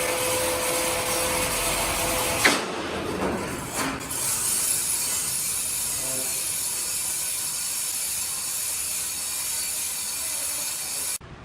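Sawmill machinery sawing wood: a loud, steady hiss of cutting noise. A steady whine runs at first, then stops, and the sound changes abruptly twice in the first few seconds and again near the end.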